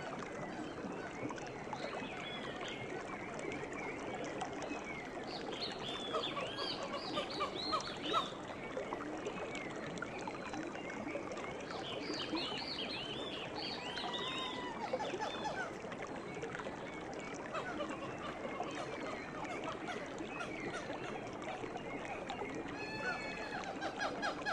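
A river running steadily, with many birds chirping and calling over it; clusters of quick high arching notes come about six and twelve seconds in.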